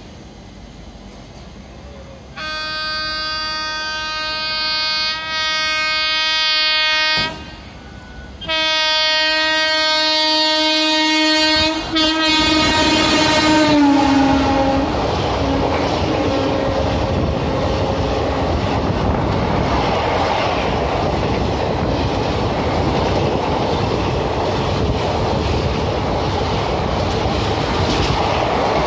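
Express train passing through a station at speed. The locomotive's horn sounds two long blasts, the second dropping in pitch as the engine goes past. Then comes the steady noise of the coaches rushing by on the track.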